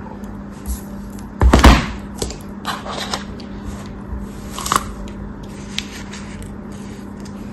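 Knife cutting a soft, crunchy material, with a loud crunch about one and a half seconds in, then lighter crackles and clicks, over a steady low hum.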